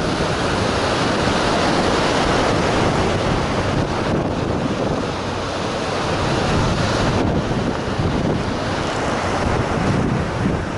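Heavy surf in strong typhoon wind, with the wind buffeting the microphone in a loud, continuous rush.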